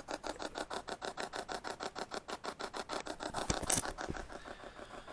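White noise spirit box sweeping through radio channels: a rapid, even chopping of static at about seven or eight pulses a second, with a louder burst of hiss about three and a half seconds in.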